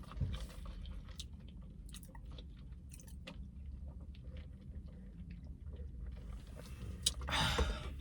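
A person chewing a smash burger close to the microphone, with many small wet mouth clicks, and a brief louder noise about seven seconds in.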